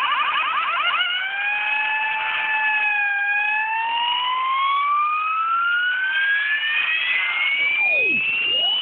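CB radio receiver audio, limited in range: a fast run of short rising chirps in the first second, then a whistling tone that wavers and slowly glides upward for several seconds, with a second tone sweeping sharply down near the end.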